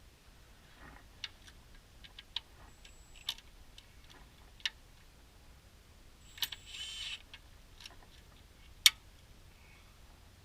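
Scattered sharp metallic clicks and clinks of tools on the transmission pan bolts, with a short rattling burst about seven seconds in and one loud click near the nine-second mark.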